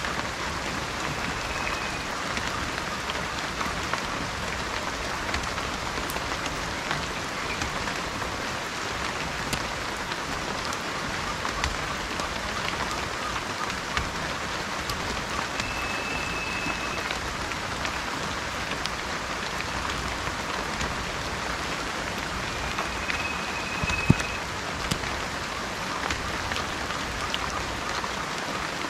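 Steady rain falling, with many small drops pattering and ticking. Three times a short, flat, high whistled bird note sounds over it, and about 24 seconds in one sharp drip or tap stands out as the loudest sound.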